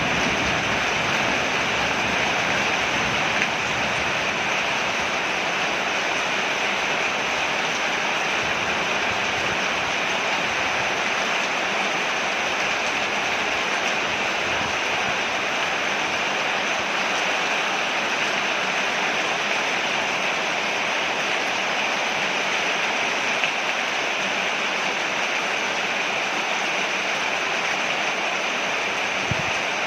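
Steady heavy rain falling on a porch, a constant even hiss with a faint tick or two of drips.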